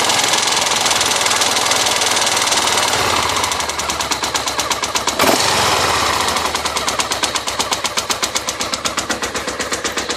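An engine running with a fast, rhythmic knocking clatter, the strange noise in question. After about three seconds the beats separate and slowly get further apart, with a brief sliding tone about halfway.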